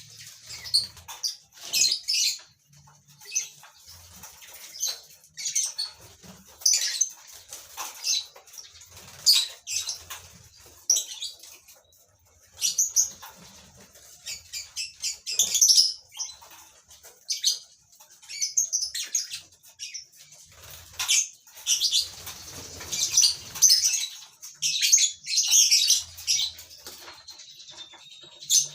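Colony of lovebirds chattering in irregular bursts of shrill, high chirps and squawks, with wing flapping.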